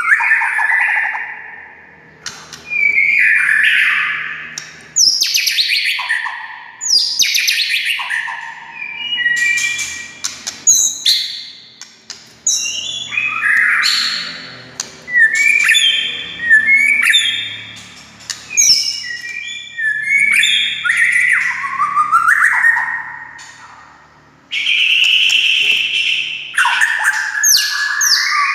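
White-rumped shama (murai batu) singing a loud, varied song: a run of short whistled phrases, many sweeping steeply downward, with brief pauses between them.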